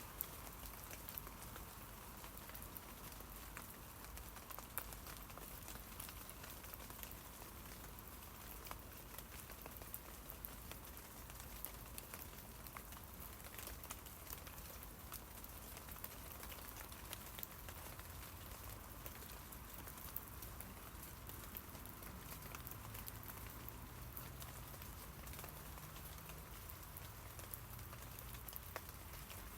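Rain falling on tree leaves: a steady patter with frequent individual drops striking. A faint low hum comes in during the second half.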